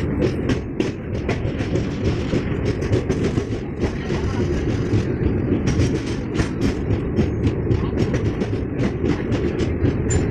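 Passenger train running at speed across a river bridge, heard from the window of a coach: a steady heavy rumble of wheels on rail with rapid, uneven clicking and rattling from the wheels and coach.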